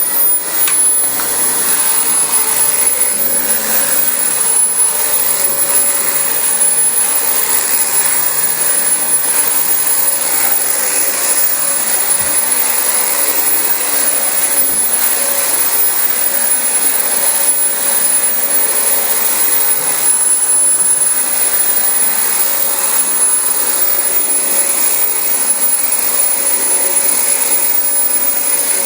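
Dyson DC25 upright bagless vacuum cleaner running steadily while being pushed over thick carpet, its motor giving a continuous rushing airflow noise with a high-pitched whine.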